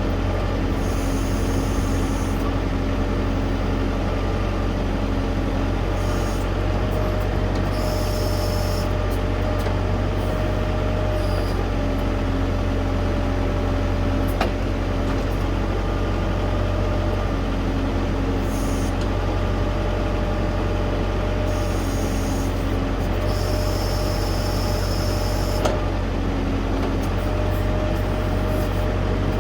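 LS U5030 tractor's diesel engine running steadily while its backhoe works the hydraulics. A humming tone and a high hiss come and go every few seconds over the drone.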